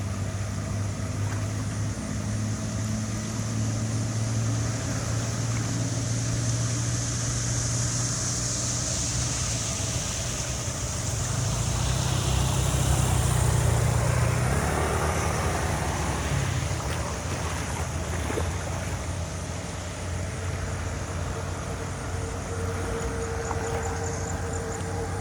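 An engine running steadily with a low, even hum, getting louder for a couple of seconds around the middle, under a rushing, hissing noise.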